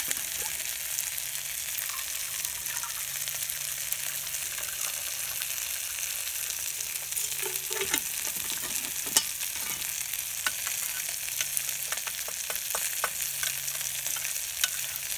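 Food sizzling and crackling steadily in a Swedish Army mess kit pot on its stove, with no way to regulate the heat; the pot is hot enough to start burning on the bottom. Scattered light clicks and clinks of metal, more of them in the second half as a spoon works in the mess tin.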